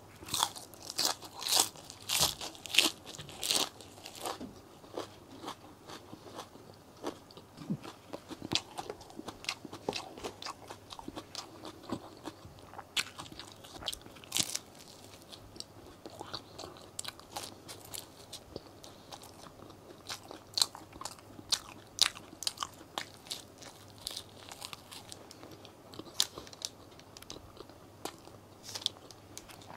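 Close-miked eating: loud crisp crunching as a raw lettuce stem is bitten and chewed over the first four seconds, then softer chewing with scattered sharp mouth clicks.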